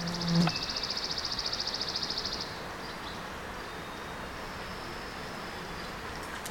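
A fly buzzes briefly past at the start, then a high, rapidly pulsing trill runs for about two and a half seconds, over a steady outdoor hiss.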